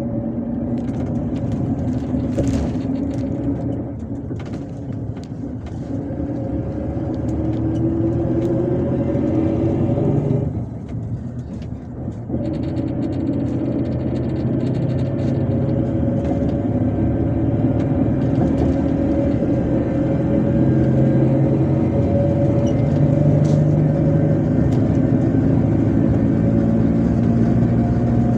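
MAZ-257 bus engine running under load, heard from inside the bus, its note climbing as the bus gathers speed. About ten seconds in, the sound dips briefly, as at a gear change, then climbs again.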